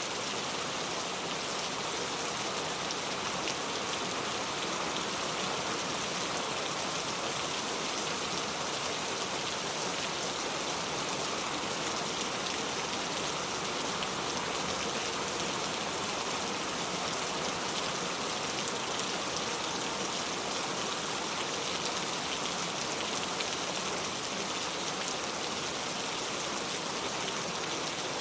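Steady rain falling, an even hiss with fine patter of drops and no let-up.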